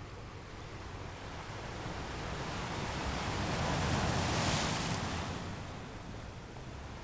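Sea waves washing along a ship at sea, with wind on the microphone; the rush swells up, peaks a little past halfway, then eases off.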